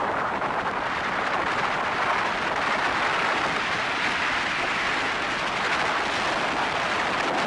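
Steady rushing noise of a jet ski under way: wind buffeting the microphone over the hiss of water and the engine, with no clear engine note standing out. It cuts off abruptly at the end.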